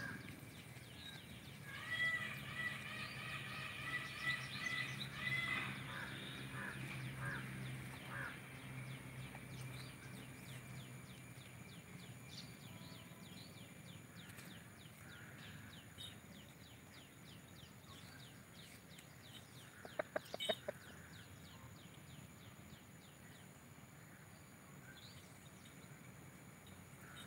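Birds calling: a run of repeated high pitched notes a couple of seconds in, then a long even series of quick high chirps, a few a second, with a short burst of sharp calls about twenty seconds in.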